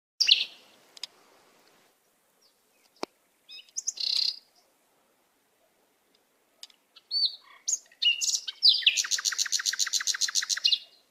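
Pied bushchat calling: a few short, high chirping notes, then a rapid trill of about nine notes a second near the end. A single sharp click about three seconds in.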